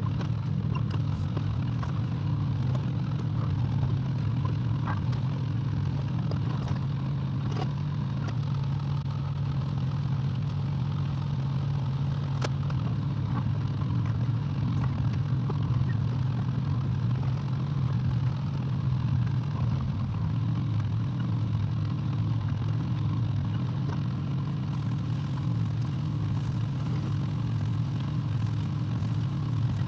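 Excavator engine running steadily, with scattered light clicks and clanks of machine work over the drone.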